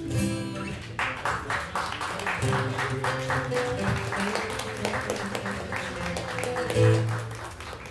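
A small audience clapping at the end of a song, with irregular claps starting about a second in. Acoustic guitar notes ring on underneath, with a louder low note near the end.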